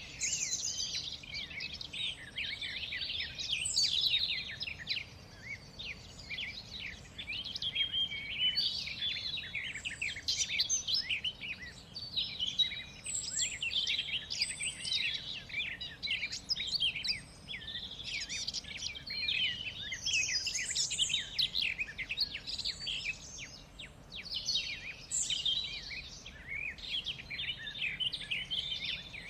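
Birds chirping and singing, many quick high chirps and trills overlapping in a dense, continuous chorus over a faint steady outdoor hiss.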